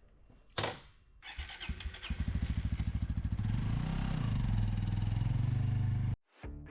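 Suzuki GSX-S125's single-cylinder four-stroke engine starting up and settling into a steady pulsing run, with a brief rise and fall in revs midway. A short loud noise comes just before it, and the engine sound cuts off abruptly near the end.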